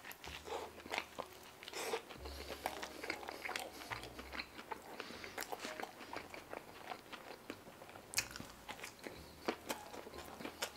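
Close-miked eating of a slider sandwich: biting and chewing, heard as a steady run of short, sharp mouth clicks.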